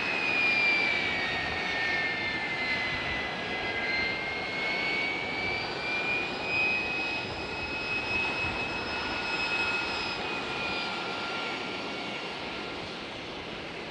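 KC-135 tanker's jet engines running, a steady rush with a high whine that dips in pitch over the first few seconds and then holds level.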